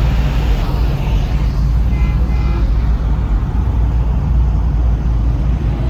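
Steady low rumble of a motor vehicle, running without a break.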